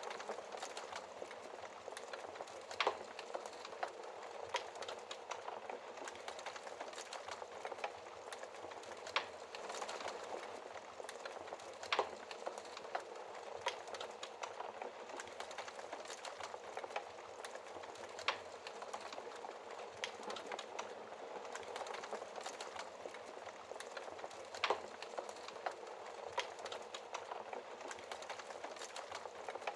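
Wood fire crackling in a fireplace: a steady hiss of burning with frequent irregular snaps and several sharper, louder pops.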